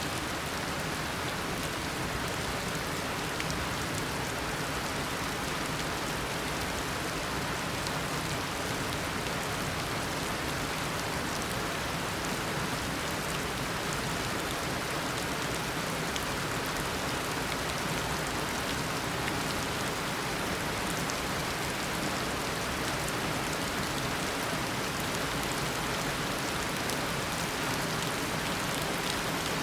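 Heavy, steady tropical downpour: an even wash of rain with scattered individual drops pattering on surfaces.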